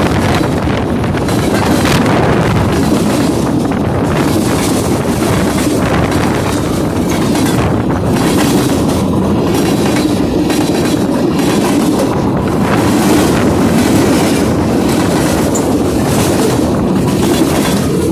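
A freight train's cars rolling past close by: steel wheels running on the rails with a steady loud rumble and repeated clacks as the wheelsets go by.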